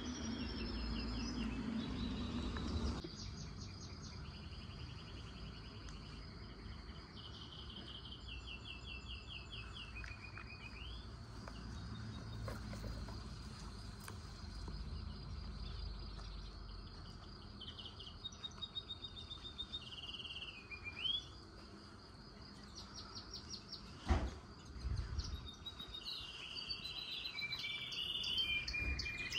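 Songbirds singing and calling: repeated rapid trills and short rising notes over outdoor background noise and a faint steady high tone. A low rumble cuts off suddenly about three seconds in, and a single sharp knock comes later on.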